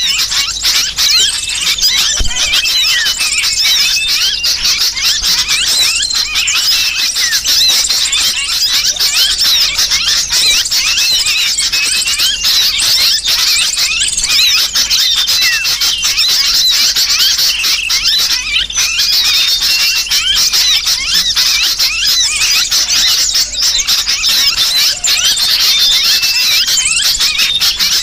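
Bird-lure recording: a dense, unbroken chorus of small birds' high chattering and squealing calls, mixing agitated sooty-headed bulbul calls with the distress cries of a trapped bird.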